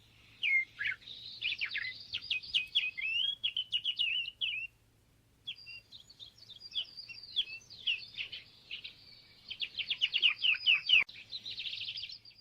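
Small songbird singing a fast, twittering warble of quick varied notes in two long runs, with a short pause about five seconds in.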